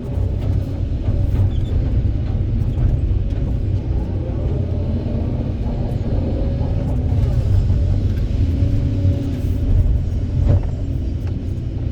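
Kobelco 200SK excavator's diesel engine running steadily with a deep rumble while it works, and a single knock near the end.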